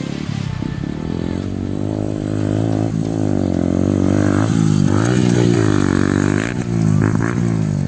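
Yamaha R15 dirt-bike conversion's single-cylinder four-stroke engine running under load, its pitch rising and falling as the throttle is opened and closed.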